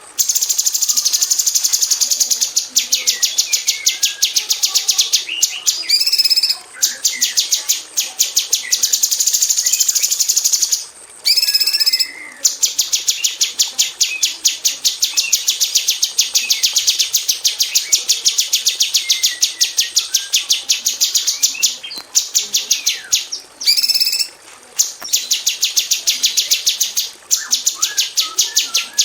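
Female orange-bellied leafbird (cucak cungkok) singing: long runs of rapid, tightly packed repeated high notes, broken by short pauses and a few separate calls.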